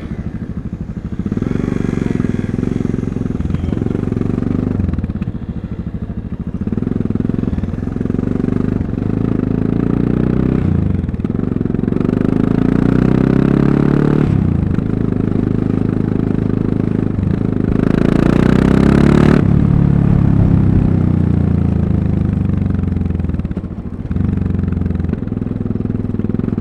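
Single-cylinder engine of a Yamaha MT-03 660 motorcycle running under way, pulling up in pitch and dropping back again and again as it accelerates and shifts gears. The loudest rev comes about two-thirds of the way through.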